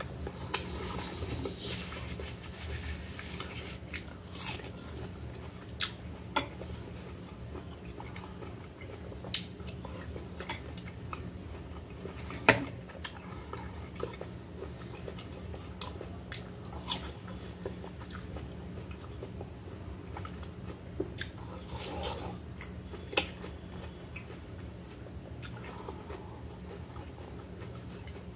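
Close-up chewing and biting of soft, juicy melon, with short sharp clicks of cutlery on a plate now and then, the loudest about halfway through, over a steady low hum.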